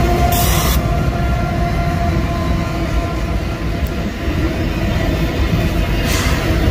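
Freight trains rolling past: steady rumble of wheels on the rails and a diesel locomotive going by, with a brief hiss about half a second in.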